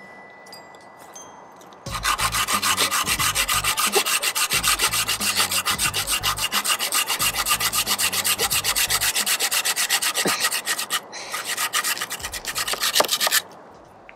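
Hand saw cutting through a wooden log in fast, even back-and-forth strokes, starting about two seconds in, pausing briefly near the end, then stopping just before the end.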